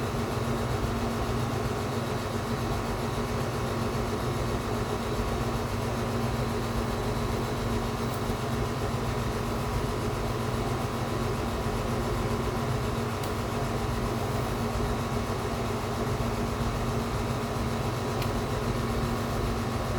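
Steady mechanical hum with several steady tones, unchanging throughout.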